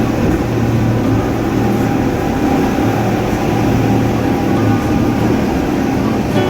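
Tour boat's engine running steadily under way, a constant low drone.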